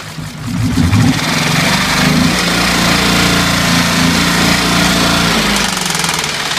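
Ford F-150's 5.0 Coyote V8 revved up and held for a few seconds, then dropping back toward idle. The engine has a bent connecting rod from hydrolocking in a water crossing and knocks.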